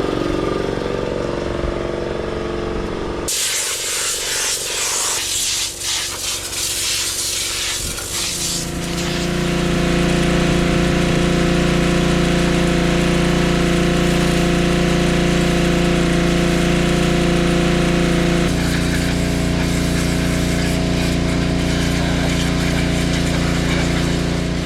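Motorised cleaning equipment running. A steady machine hum is broken by a loud, harsh hiss of a high-pressure jet from about three to eight seconds in. A strong, even drone then follows, and it changes pitch a little near the end.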